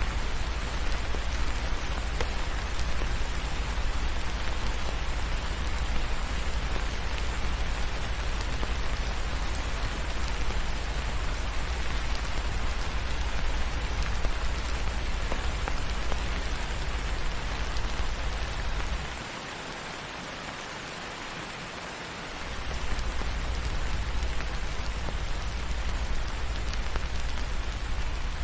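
Steady rain pattering on a surface, an even hiss with a deep low rumble underneath. The rumble and overall level drop away for about three seconds past the middle, then come back.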